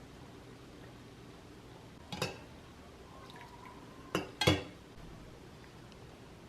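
Kitchenware being handled: three short clinks or knocks, one about two seconds in and two close together a couple of seconds later, the last the loudest, over a low steady hum.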